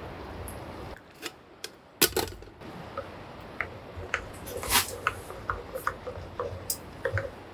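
A series of light clicks and taps from objects being handled, with one sharper knock about two seconds in. A steady hiss in the first second drops away abruptly before the clicks begin.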